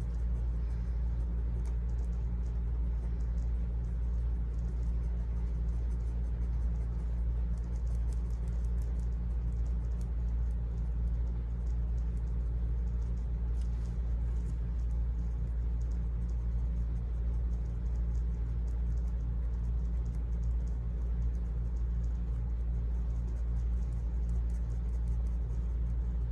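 A steady low hum with faint, irregular light scratching and tapping on top: ink being dabbed and blended through a stencil onto card stock.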